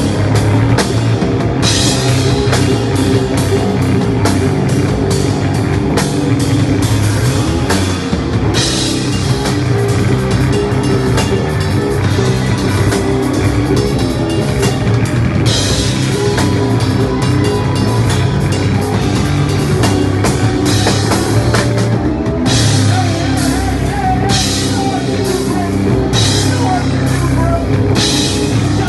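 Live heavy band playing at full volume: distorted electric guitars, bass and a pounding drum kit, captured as raw unmixed room audio. The cymbals drop out for a few seconds at a time and then return.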